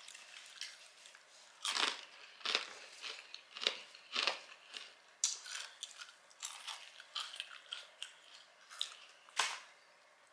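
A person chewing and biting a burger and curly fries: irregular wet mouth noises and crunches, with a handful of louder ones scattered through.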